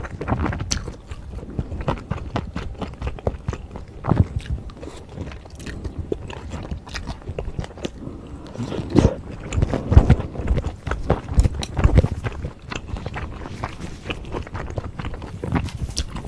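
Close-miked chewing of beef bulgogi with wide Chinese glass noodles and bean sprouts: many short, wet mouth clicks and crackles, louder about nine to twelve seconds in.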